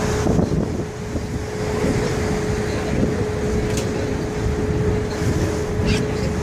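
Tour boat's engine running with a steady hum and one held tone, mixed with wind buffeting the microphone.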